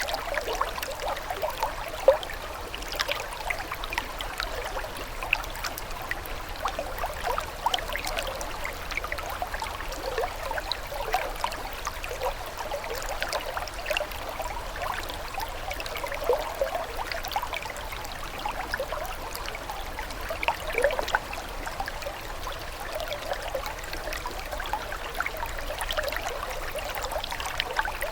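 Water running and trickling steadily, dense with small, irregular splashes and drips.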